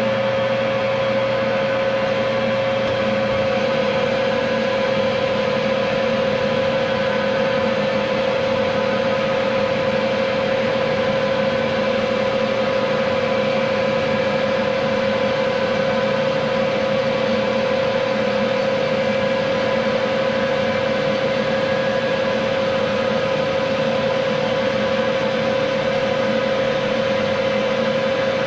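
Metalworking machine tool running steadily, its motor and gearing giving a constant whine with a strong single pitch over a hum.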